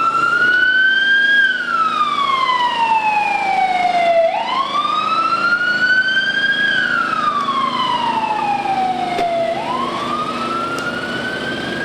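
Emergency vehicle siren sounding a slow wail: the pitch climbs quickly, then sinks slowly, repeating about every five seconds, two and a half times.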